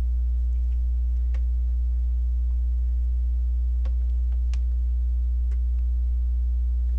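Steady low electrical hum, with a handful of small sharp clicks of plastic LEGO pieces being handled and snapped together.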